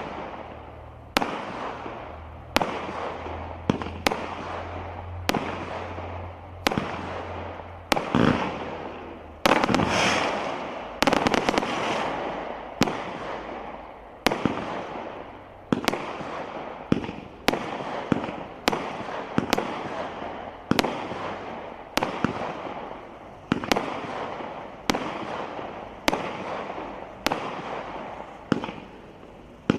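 A firework barrage firing shot after shot at a steady pace, about one every three-quarters of a second. Each sharp bang is followed by a fading crackle, with a thicker patch of crackling about ten seconds in.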